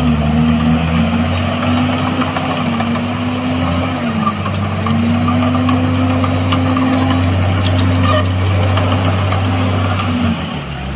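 Heavy diesel engine of earthmoving machinery running steadily under load, its pitch dipping briefly about four seconds in and again near the end.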